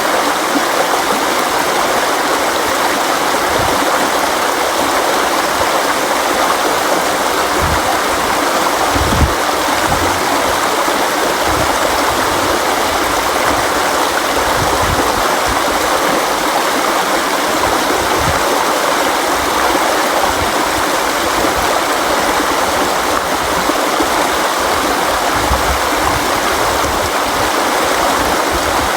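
River water flowing over rocks, a steady rushing noise with occasional brief low thuds, the strongest about nine seconds in.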